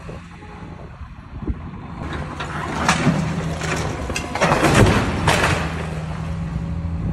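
Heavy machine's diesel engine running steadily, with louder rushes of noise about three seconds in and again around the five-second mark.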